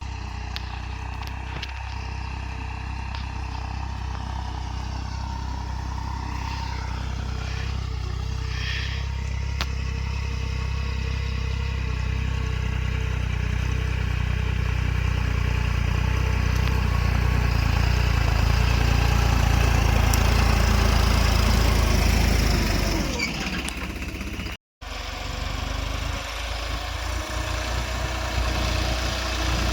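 New Holland tractor's diesel engine running steadily with a deep rumble, growing gradually louder for about twenty seconds and then falling away. About 25 seconds in, the sound cuts out for a moment and the engine resumes.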